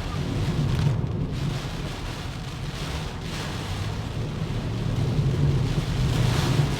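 Heavy typhoon rain and wind noise on a moving car, a steady hiss over a low rumble that swells twice.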